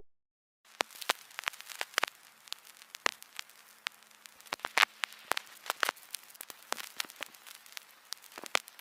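Irregular crackling: sharp pops and clicks at random intervals over a faint steady hum, starting after a brief silence.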